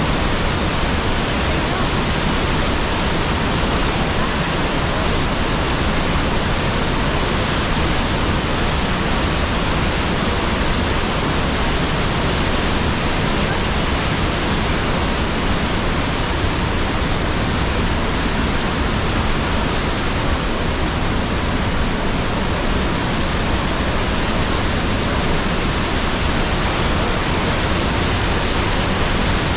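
The Rhine Falls waterfall: a loud, steady rush of falling water that does not change.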